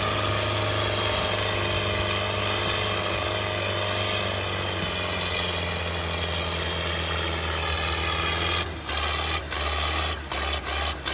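Tractor diesel engine running steadily at a constant speed. About eight and a half seconds in, the sound turns choppy, cutting in and out unevenly.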